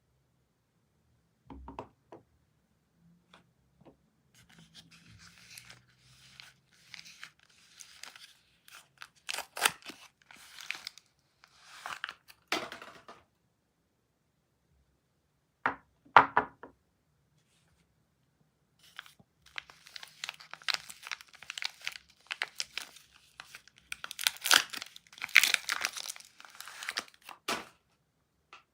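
Soap packaging being torn open and its wrapper crinkled, in bursts separated by short pauses. There is a sharp, loud crackle about halfway through.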